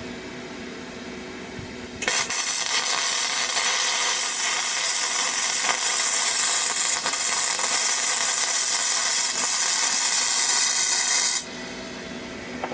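Flux-core arc welding: the Parkside PMSG 200 A1 welder's arc crackling and hissing evenly for about nine seconds as a vertical weld is run, starting about two seconds in and cutting off abruptly. A steady machine hum from the welder's cooling fan sits under it before and after.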